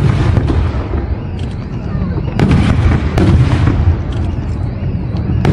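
Aerial fireworks going off: loud bangs, each followed by a long crackling tail. There is a burst at the start, two more about two and a half and three seconds in, and a sharp bang near the end.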